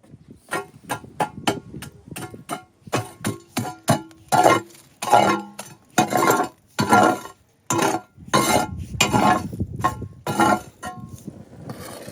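An irregular run of sharp clinks and knocks, about two or three a second, some with a short ringing tone, thinning out near the end.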